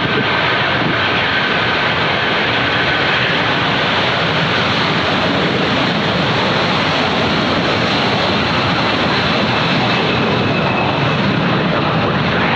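Airliner jet engines running, a steady, even noise with a faint high whine.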